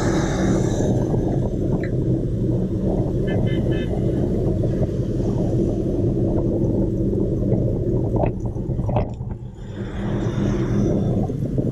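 Steady rumble of motor traffic on a city road, with a vehicle horn giving three short beeps about three and a half seconds in.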